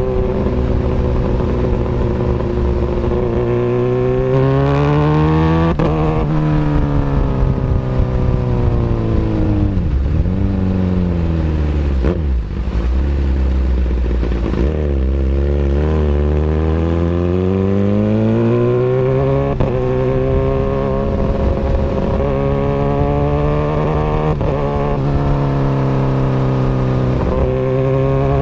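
Kawasaki Ninja ZX-6R 636's inline-four engine running through an Austin Racing aftermarket exhaust. The revs climb and fall several times, with sudden drops in pitch about six seconds in and again near the middle.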